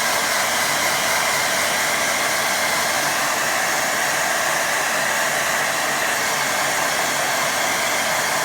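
Hair dryer blowing steadily on a wet watercolour painting to dry the paint.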